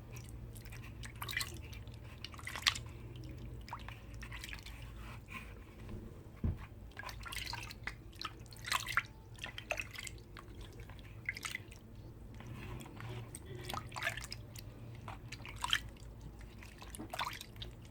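Hands being washed in water, with irregular splashes and drips as a tomato and baking-soda mask is rinsed off the skin.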